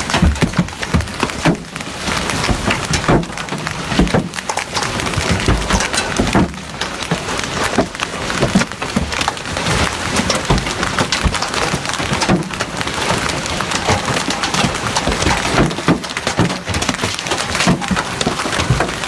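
Storm noise: a loud, dense hiss with frequent sharp cracks and knocks throughout, like hurricane wind and rain with debris striking.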